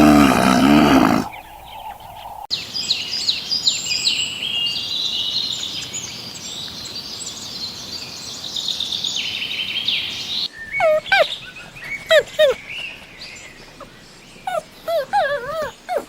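A sequence of animal sounds. A roar dies away in the first second. After a short gap, a chorus of small birds chirps busily for about eight seconds. It cuts off, and a dog whimpers in short high whines that rise and fall, several of them, until the end.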